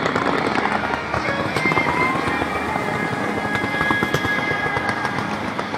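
Aerial fireworks crackling and popping in a dense, continuous stream of sharp cracks, with music playing underneath.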